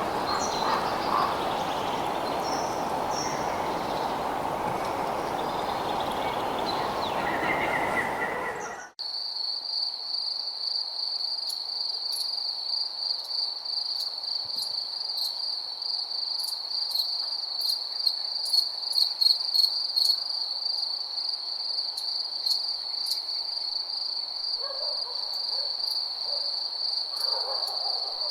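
Night animal calls chirping over a steady hiss, cut off abruptly about nine seconds in by a steady high trilling chorus of crickets with scattered short clicks.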